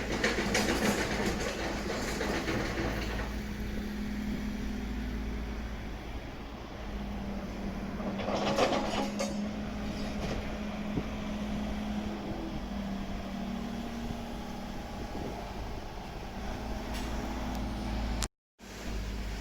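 A Tobu Skytree Line train running on the track, with a steady low hum underneath and louder stretches at the start and about halfway through. The sound cuts out for a moment near the end.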